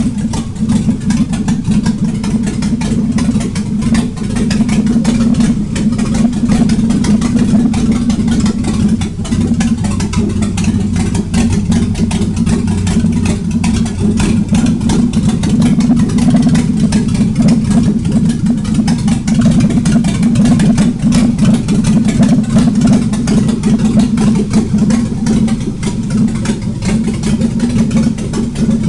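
GM Vortec 4.3-litre V6 running steadily and loudly with no exhaust system fitted. It is running for the first time after about six years laid up.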